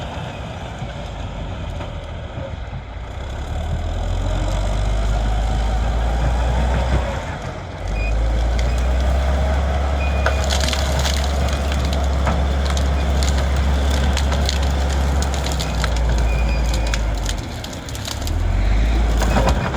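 Large bulldozer's diesel engine working under load as it pushes over trees, with cracking and splintering of breaking wood. The engine briefly drops twice.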